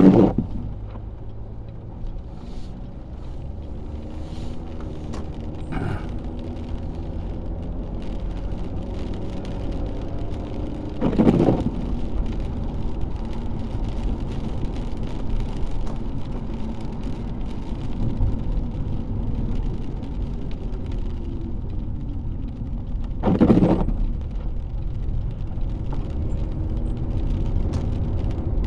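Car engine and road noise heard from inside the cabin while driving in the rain: a steady low rumble with a faint engine hum that drifts slowly in pitch. Three brief louder swells come about twelve seconds apart.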